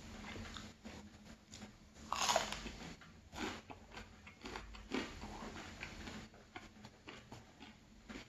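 A close-miked mouth bites into a piece of buttery fruit toast soaked in hot chocolate about two seconds in, which is the loudest sound, then chews it with a run of short, irregular mouth clicks.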